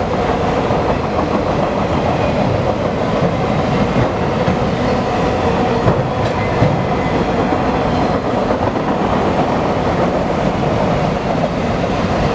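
Freight train cars rolling past, a steady rumble of steel wheels on rail with occasional clacks over the rail joints.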